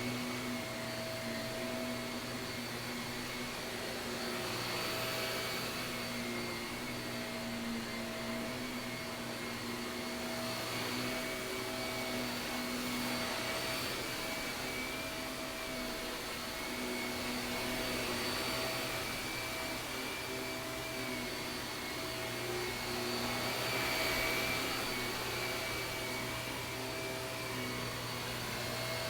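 Shark vacuum cleaner running steadily: a constant whine over a low hum, with no breaks.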